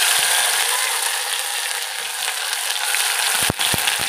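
Hand-pounded chilli, garlic and ginger masala sizzling hard in hot oil in a steel pot, the spluttering of a fresh tempering (vaghar), with a couple of short knocks about three and a half seconds in.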